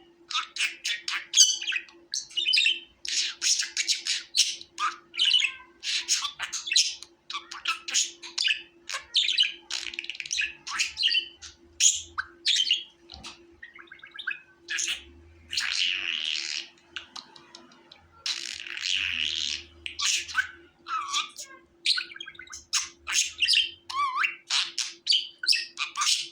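Budgerigars chattering: a dense run of quick high chirps and squawks, with longer warbled stretches about halfway through and again a few seconds later.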